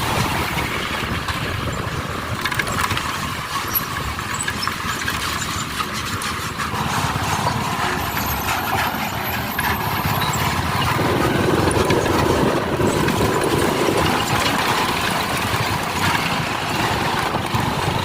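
Motorcycle riding at road speed: the engine running under a steady rush of wind and road noise.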